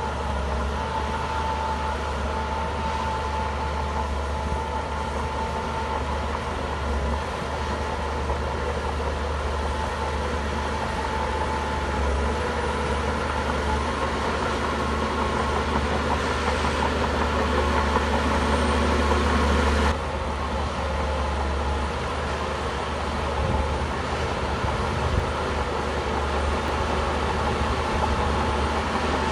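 Shantui crawler bulldozer's diesel engine running steadily under work, with a faint steady whine over a deep hum. It grows gradually louder, then drops suddenly about two-thirds of the way through.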